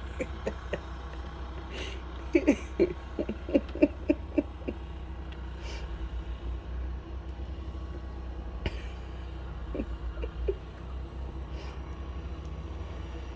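A person laughing in short, evenly spaced bursts, about two seconds in and again briefly around ten seconds, over a steady low rumble.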